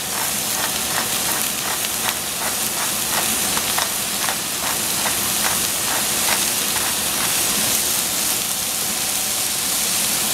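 Oyster mushrooms sizzling steadily in a hot saucepan. A pepper mill clicks about three times a second as it is turned over the pan, stopping a few seconds before the end.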